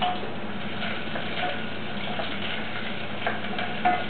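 Chopped shallots and garlic sizzling as they fry in oil in a pan, with a spatula stirring and knocking against the pan a few times, two sharp knocks near the end.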